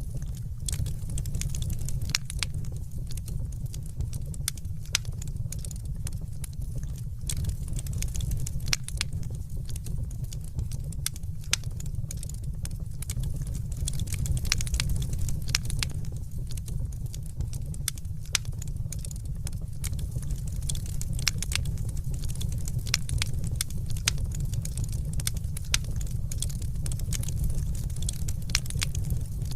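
Fireplace wood fire crackling: a steady low rumble of the flames with frequent irregular sharp pops and snaps.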